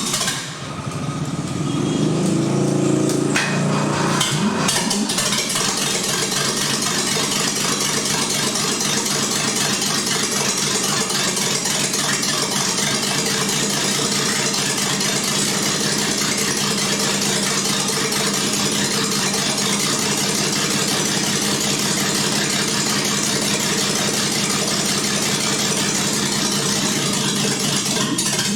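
An engine catching and settling in the first few seconds, then idling steadily.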